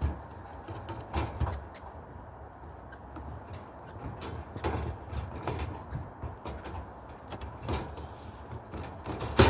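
Irregular knocks, clicks and scrapes of a birdcage and its feeders being handled, with a sharp knock near the end.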